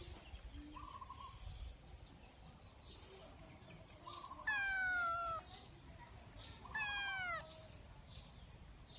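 A kitten meowing twice, about two seconds apart, each call drawn out and falling in pitch, over faint short chirps in the background.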